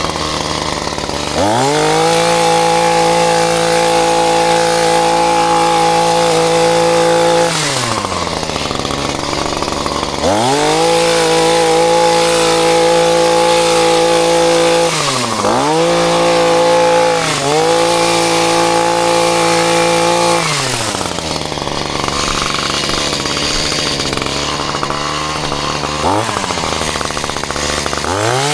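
Two-stroke chainsaw revved up to full throttle and held there for several seconds at a time, then let back down to idle. This happens three times, with a quick blip near the end.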